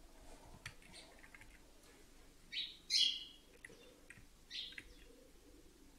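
A small bird chirping in a few short bursts, the loudest about three seconds in, with faint clicks of computer keys and mouse.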